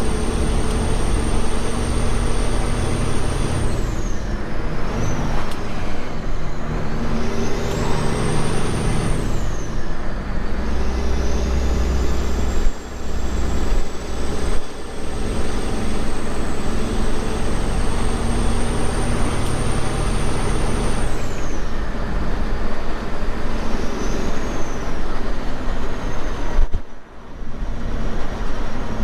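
Semi truck engine running under way with road noise, a steady low hum. A high whine falls away and climbs back several times, and the sound drops out briefly a few times.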